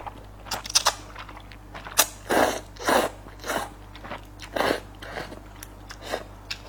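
Close-miked mouth sounds of a person eating Nanchang mixed rice noodles: a series of irregular wet bites and crunchy chews.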